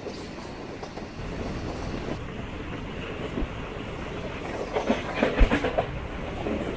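Train running along the track, heard from on board as a steady rumble, with a quick run of wheel clacks over rail joints about five seconds in.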